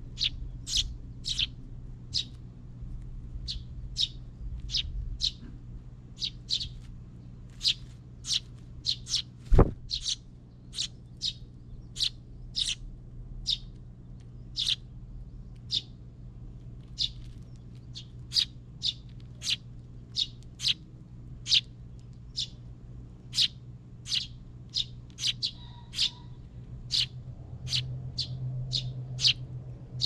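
Small birds at a feeder chirping, short sharp chirps coming one or two a second at irregular intervals. A single sharp knock about ten seconds in, and a low steady hum underneath.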